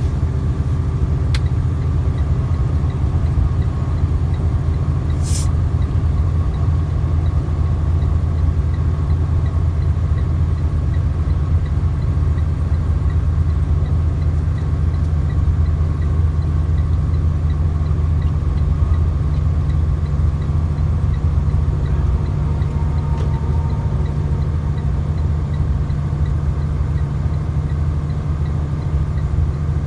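Truck engine and road noise heard inside the cab while driving, a steady low drone. A brief high hiss about five seconds in.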